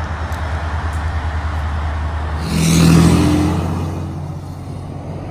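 Steady low drone and road noise of a vehicle driving on the highway. About halfway through, a louder rush swells up and then fades away over a second or two.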